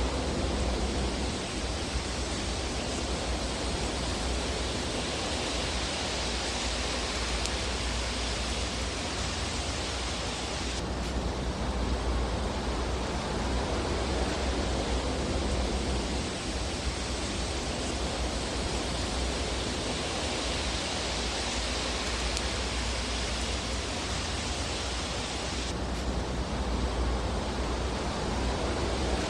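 Fireplace ambience: a steady hiss over a low rumble, swelling and easing slowly, with no distinct crackles standing out. The hiss shifts abruptly twice, about eleven seconds in and near the end.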